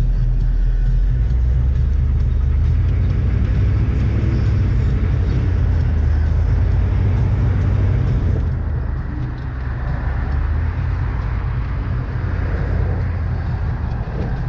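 Steady low engine and road rumble of a moving vehicle, heard from inside. The high hiss thins out a little past the middle.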